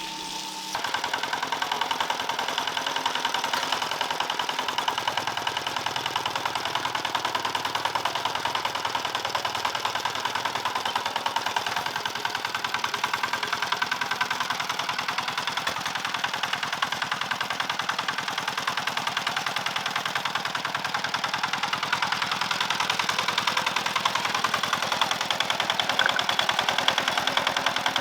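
A small engine running steadily with a rapid, even pulse. It gets louder under a second in and again slightly near the end.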